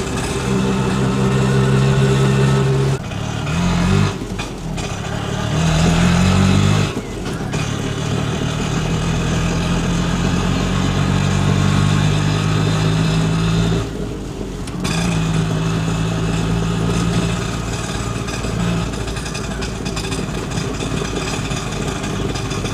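Vehicle engine running with a low, steady hum, revving up in rising glides about four and six seconds in. The sound breaks off and restarts abruptly several times.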